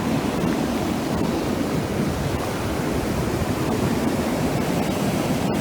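Ocean surf breaking and washing up the shore: a steady, dense rush of waves with no let-up.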